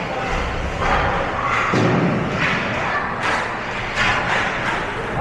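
Irregular thumps and knocks echoing in a large indoor hall, with voices in the background.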